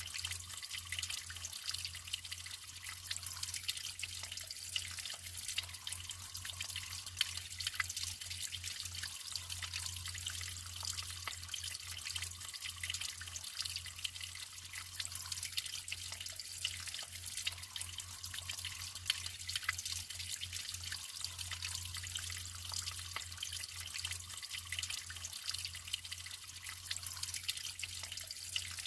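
Naturally flowing water trickling and splashing steadily, with many small drips and splashes throughout.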